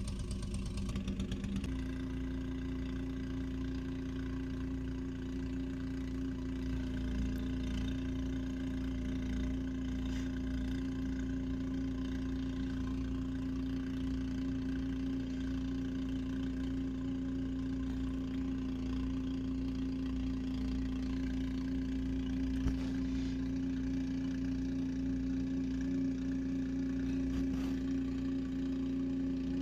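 A motor or engine running steadily with a constant hum, its pitch stepping up slightly about two seconds in.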